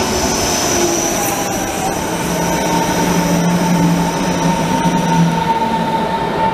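Berlin S-Bahn electric train moving past close by: rushing wheel and rail noise with faint clicks, and steady whining tones from the train, a high one fading out about five seconds in.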